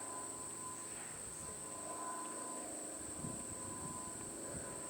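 Steady, high-pitched drone of insects such as crickets, unbroken throughout.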